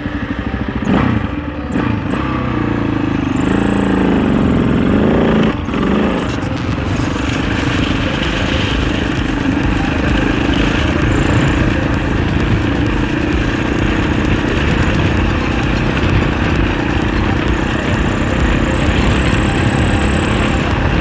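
Husaberg FE 650 single-cylinder four-stroke dirt bike engine running under load while riding, its pitch rising and falling between about three and six seconds in as the throttle is worked, then holding fairly steady.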